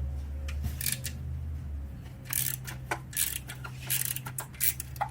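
Irregular sharp metallic clicks and clinks of hand tools being handled during motorcycle exhaust work, over a steady low hum.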